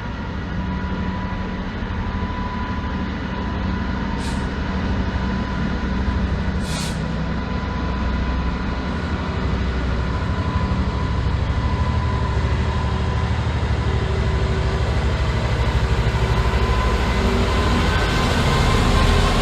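Class 66 diesel-hauled freight train running through the station: a steady rumble of wagons with held whining tones that rise slightly and grow gradually louder. Two short hisses come about four and seven seconds in.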